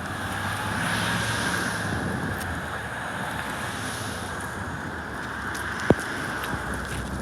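Wind buffeting the microphone over steady outdoor background noise, with a low rumble in the first couple of seconds and a single sharp click about six seconds in.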